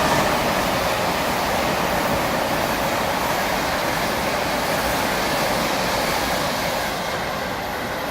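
A train running past on the line through the station: a steady rushing of wheels on rail that eases slightly near the end.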